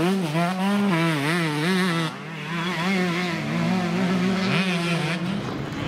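Enduro motorcycle engine revving up and down again and again as the rider works the throttle through mud, the pitch rising and falling about twice a second.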